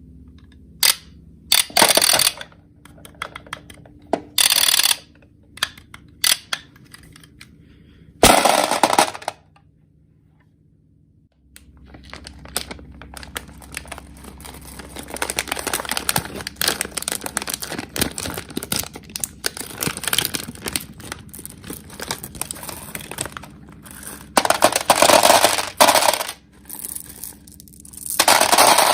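Small hard-shelled candies pouring and rattling against a container in rapid clicking bursts, with a short pause about ten seconds in, then a long dense stream of clicks.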